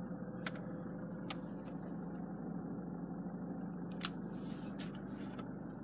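Land Rover Freelander's 2.2 TD4 four-cylinder turbodiesel idling steadily, heard from inside the cabin, with a few light clicks and a brief rustle.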